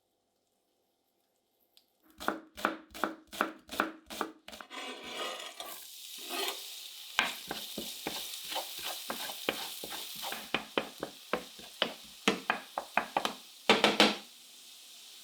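A utensil clinking quickly and rhythmically against a dish, about five strikes a second. Then food sizzling steadily in a hot pan while a spoon stirs and taps against it, with the loudest taps near the end.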